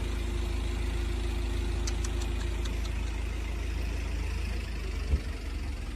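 Steady low rumble of a vehicle engine idling, with a few light ticks about two seconds in and a single short thump about five seconds in.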